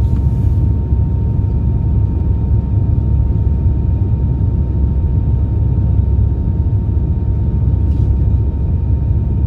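Steady low rumble of an Airbus A319 heard inside the passenger cabin, with a thin steady whine above it.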